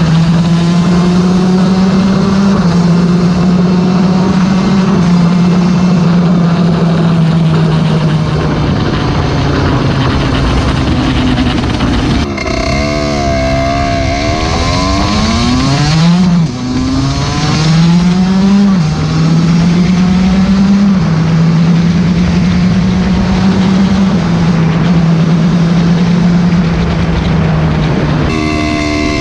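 Derbi motorcycle engine running at steady riding revs. About halfway through, the revs drop and waver, then climb in a few quick rises before settling back to a steady pitch.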